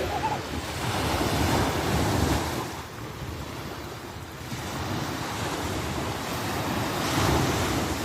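Sea waves breaking and washing up on the shore, swelling twice. Wind buffets the microphone in the first couple of seconds.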